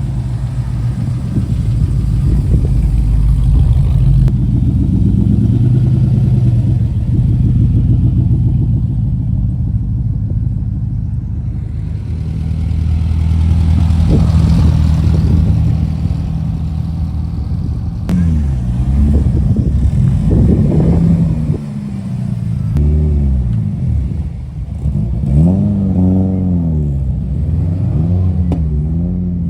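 A car engine running at idle, then revved in a series of short blips, each rising and falling in pitch, over the last ten seconds or so.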